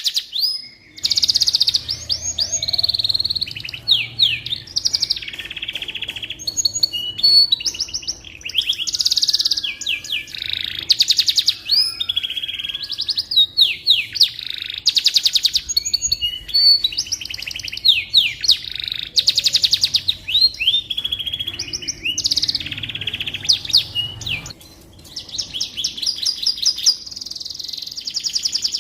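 Domestic canary singing a long, continuous song of fast trills, rapid repeated notes and gliding whistles.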